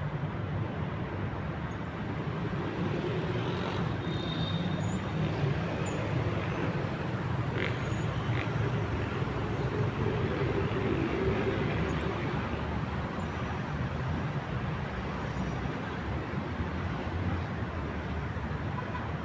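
Steady city traffic rumble, with a few faint short high squeaks or chirps about four and eight seconds in.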